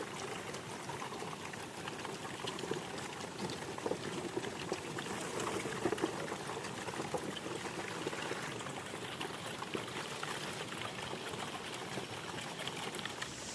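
Running water splashing and trickling, a steady bubbling rush with many small splashes.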